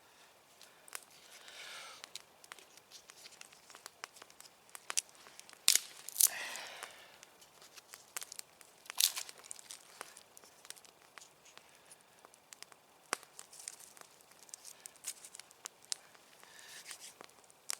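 Campfire of damp, snow-wet firewood crackling. Scattered sharp pops run throughout, with a few louder snaps about six and nine seconds in.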